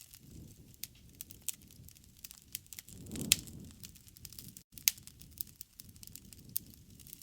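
Wood campfire crackling: irregular sharp pops and snaps, two louder ones a little past three seconds and near five seconds in, over a low, uneven rush of flames.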